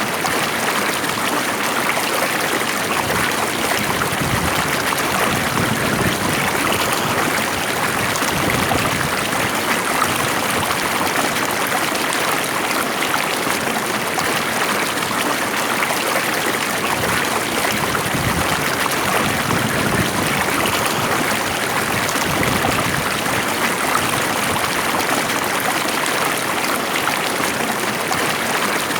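Water flowing and trickling steadily in a stream, an even rushing with no breaks.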